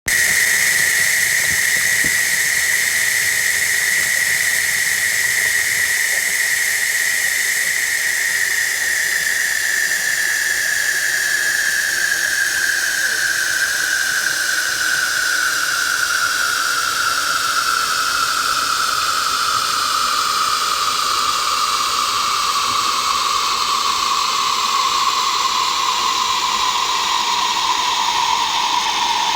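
Water sound run through a voice-changer effect: a steady hiss with a whistling tone that glides slowly downward.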